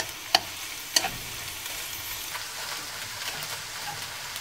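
Cut scallions sizzling gently in plenty of oil in a wok over low heat, being slowly fried to draw out their aroma for scallion oil. Two sharp clicks of chopsticks against the wok come about a third of a second and a second in.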